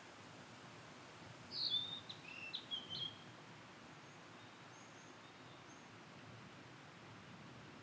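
Blue-and-white flycatcher singing one short phrase of several quick, clear notes that slur downward, about a second and a half in and lasting about a second and a half. A steady faint hiss lies underneath, with a few faint high chirps from other birds later on.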